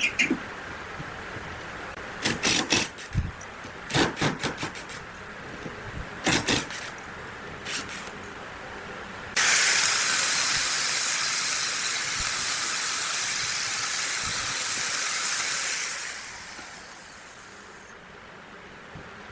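A few knocks and clicks, then a loud, steady hiss of compressed air that starts suddenly about nine seconds in, lasts about six seconds and tails off.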